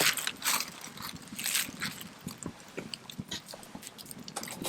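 Wood fire crackling with irregular sharp pops, and a few brief hissing bursts in the first second and a half.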